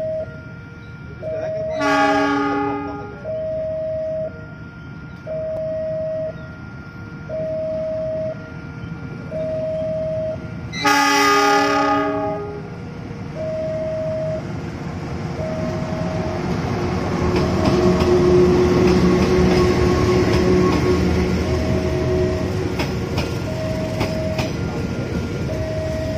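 Level-crossing alarm sounding a two-tone signal, switching pitch about once a second, while a KAI CC 206 diesel-electric locomotive sounds its horn twice: a short blast about two seconds in and a longer one about eleven seconds in. From about fourteen seconds the locomotive and its passenger coaches pass close by, engine and wheel noise growing to the loudest part, with clicks of wheels over rail joints near the end.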